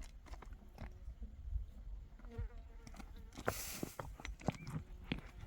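An insect, likely a fly, buzzing among scattered light clicks and knocks, with a short rush of noise about three and a half seconds in.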